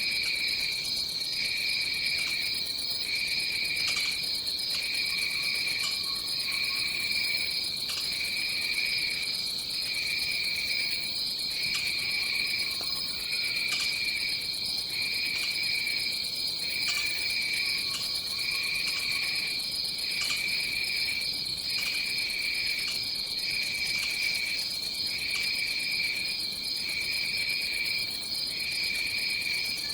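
Rainforest insect chorus: one continuous high, even drone, with a second, lower insect song that pulses on and off about every second and a half. A faint lower call sounds a few times.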